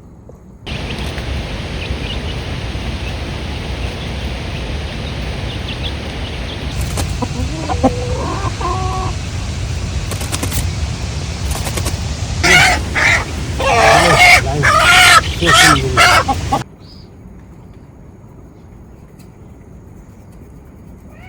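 Chickens clucking and calling, with a run of loud calls over several seconds, heard over a steady noise with a deep rumble. The noise starts just after the beginning and cuts off suddenly about three-quarters of the way through.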